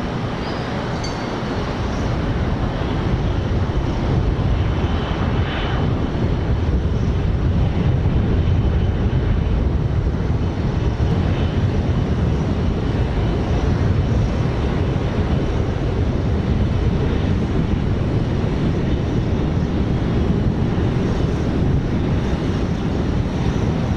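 Jet airliner's engines at takeoff power: a steady, heavy rumble, growing slightly louder after the first couple of seconds.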